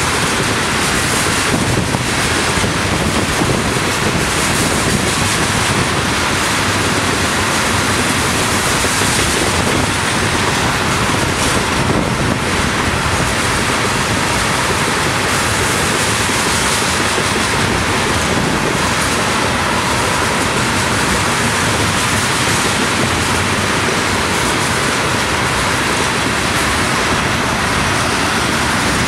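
Ethanol tank cars of a long unit freight train rolling steadily past, their wheels on the rails making a continuous even noise, mixed with wind on the microphone.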